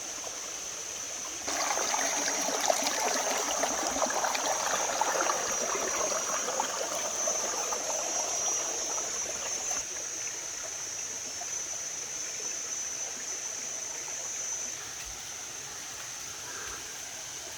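Waterfall water rushing and splashing over rocks, growing sharply louder about a second and a half in and easing off after about ten seconds. A steady high-pitched insect drone runs over it and stops near the end.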